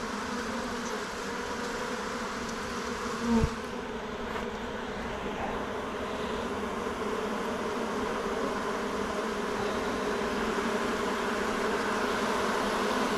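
Honeybees buzzing around an opened hive in a steady, many-voiced drone, with a brief thump about three and a half seconds in.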